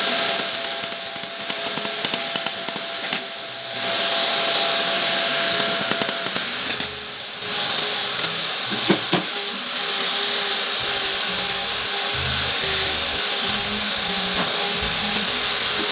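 A workshop power tool running steadily with a high, even whine, under background music.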